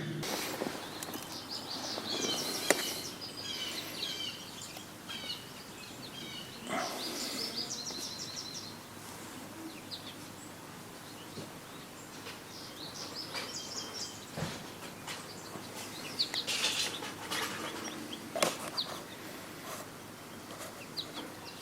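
Birds chirping and calling in short, quick bursts of high notes, on and off over a steady low background hiss.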